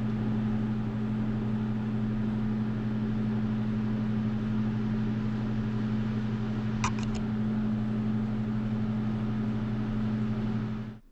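A small electric appliance with a motor runs steadily with a low hum and a hiss. It switches on at the start and cuts off sharply near the end.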